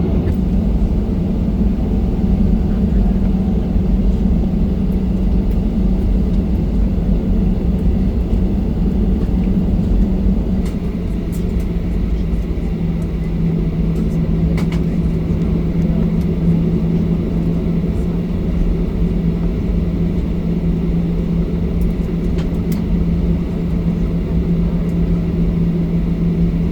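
Cabin noise of a Boeing 737-800 taxiing: the steady low rumble of its CFM56-7B engines at low thrust. A steady hum in it drops slightly in pitch about halfway through.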